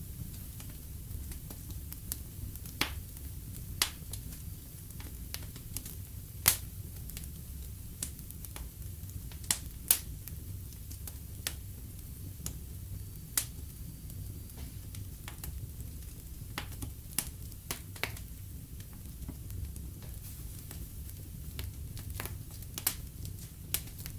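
Wood fire in a fireplace crackling: irregular sharp pops and snaps over a steady low rumble of the flames, with a few louder pops about six and ten seconds in.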